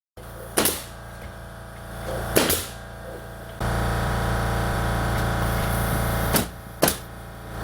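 Four sharp shots from a pneumatic nail gun, about 0.6, 2.4, 6.4 and 6.9 seconds in, over a steady motor hum that gets louder about three and a half seconds in.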